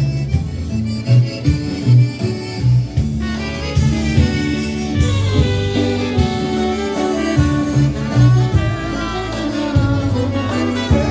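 Polka band playing an instrumental passage of a Polish waltz, with a steady bass line under held horn and reed chords.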